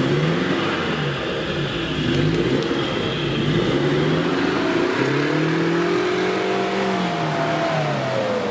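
Off-road trophy vehicle's engine revving in repeated rises and falls, then one longer rev that falls away near the end.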